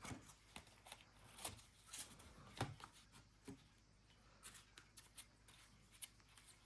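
Faint rustling and light ticks of trading cards being flipped through by hand, a handful of soft card snaps spread out among near silence.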